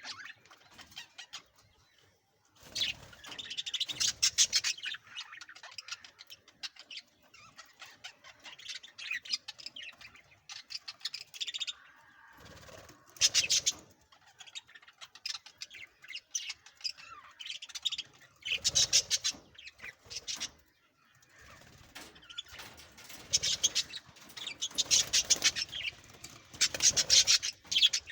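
Budgerigars chirping and chattering in repeated bursts, with short pauses between bursts.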